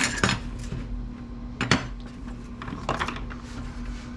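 Sharp metallic clinks and knocks as parts are worked loose in a steel desktop computer case: a cluster at the start, one about 1.7 seconds in and another about 3 seconds in, over a faint steady hum.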